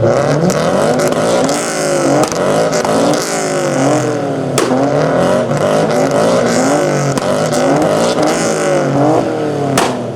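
Modified car engines revving hard through loud exhausts, the pitch climbing and dropping over and over. Sharp exhaust pops crackle throughout, with two loud bangs: one about four and a half seconds in and one near the end.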